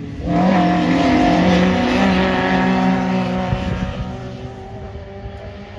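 A pre-1966 touring race car's engine at racing speed, coming in suddenly and loud about a third of a second in. It holds a fairly steady note for about three seconds, then fades away.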